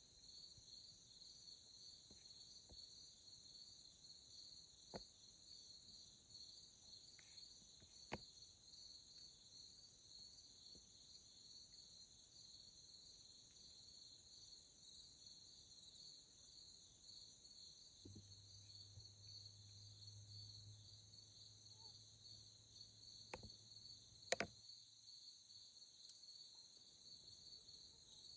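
Faint, steady chorus of night insects such as crickets, a continuous high-pitched trill. A few light clicks break in now and then, the loudest near the end, and a faint low hum sits under the chorus for several seconds late on.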